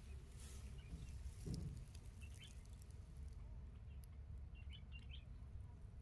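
Faint outdoor field ambience: a steady low rumble with a few short, faint bird chirps about two seconds in and again near five seconds.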